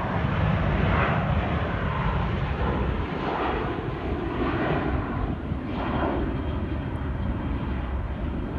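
An airliner taking off from Luton Airport, its engines giving a steady rushing roar.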